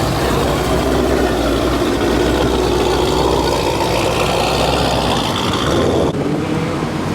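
Car engine running under way, its pitch rising as it accelerates, with road noise; the hiss of the road noise drops abruptly about six seconds in.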